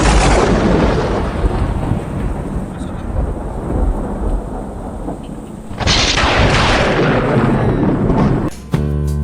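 Two loud claps of thunder with rain, each dying away in a long rumble, the second about six seconds in. Music with a beat starts near the end.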